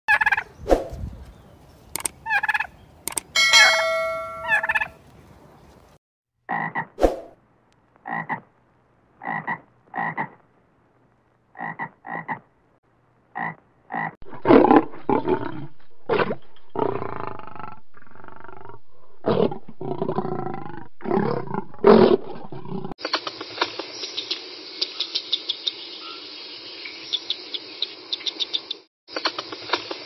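A run of different animals calling, cut one after another: turkeys calling at first, then short calls repeated about once a second, then a male lion's loud repeated roaring grunts. From about 23 seconds in, a steady fast crackle of clicks, a red squirrel gnawing at a feeder.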